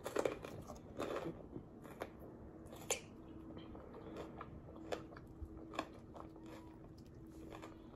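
Faint, scattered crunches of chewing a raw jalapeño stuffed with cream cheese and Takis rolled tortilla chips, a crisp crunch about once a second.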